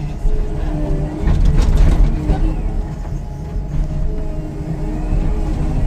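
Heavy demolition machinery's engine running steadily, with a burst of cracking and crunching about a second and a half in as the house structure is broken up.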